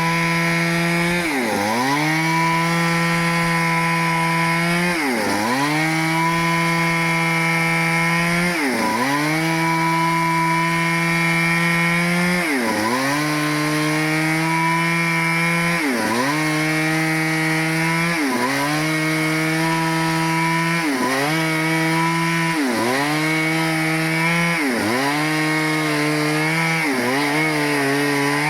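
Stihl two-stroke chainsaw running at high revs while cutting teak wood. Its engine note dips sharply and recovers every few seconds; the dips come faster, about every second and a half, in the later part.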